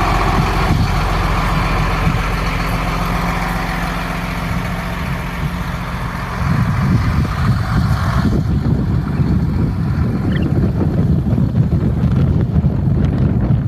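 Hino 268 dump truck's diesel engine idling steadily; about six seconds in the sound turns into a louder, rougher low rumble.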